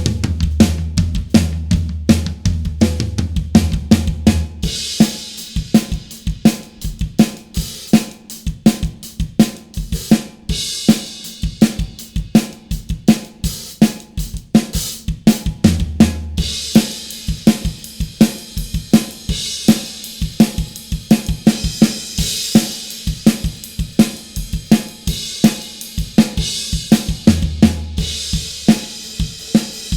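Acoustic drum kit played in a steady groove, close-miked: kick, snare and hi-hat hits, with stretches of cymbal wash and a few spells of low drum ringing.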